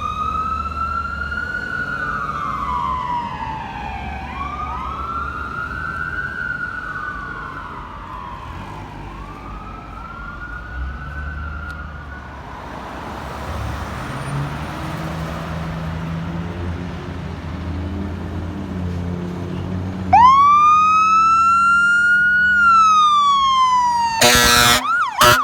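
Emergency vehicle sirens wailing as a fire engine and ambulance respond: one wailing siren rising and falling for about twelve seconds while fading away, with engine and road rumble underneath. About twenty seconds in, another siren starts up loud, and near the end a massive air horn blasts.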